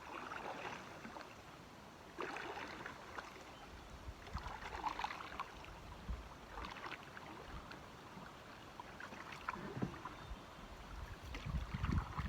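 Canoe paddle strokes in the water: a soft swish and splash about every two seconds as the paddle dips and pulls.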